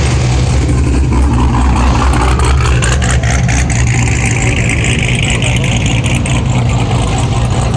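A vehicle's engine running close by with a steady deep rumble, and a hiss that swells and fades over a few seconds in the middle.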